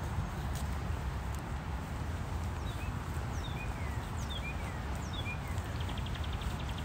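A small songbird gives about six short, down-slurred chirps, starting about two and a half seconds in, then a quick ticking trill near the end. Under it are a steady low rumble and walking footsteps on a paved path.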